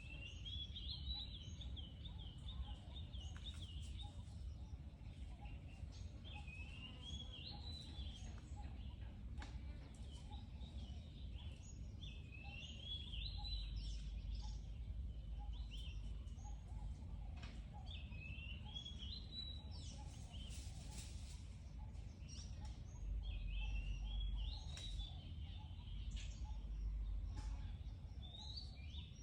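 A bird singing short warbling phrases, repeated about every five seconds, over a steady low rumble.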